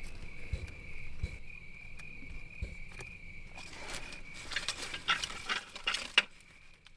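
A steady high insect trill carries on, with a burst of sharp clicks and rustling a little past the middle. The trill drops out for a moment near the end.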